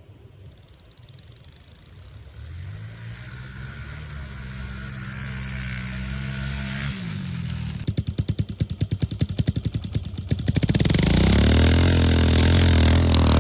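Kawasaki KLX single-cylinder dirt bike engine running and growing steadily louder as it comes closer, its pitch rising and holding. It pulses rapidly for a couple of seconds, then runs loud and steady close by.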